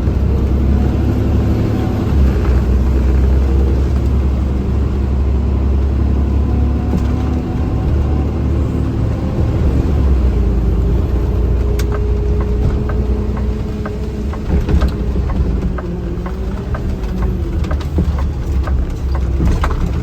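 Engine and road noise heard inside a vehicle's cabin while driving: a steady low rumble with the engine note slowly rising and falling. A scatter of sharp clicks comes through in the second half.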